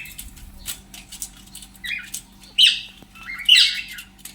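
Pet parrots squawking: several short, harsh calls, the loudest about three and a half seconds in, with light clicking and tapping between them.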